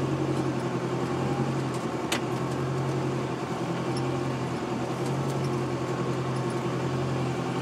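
Jeep engine running steadily at low trail speed, heard from inside the cab, with one sharp click about two seconds in.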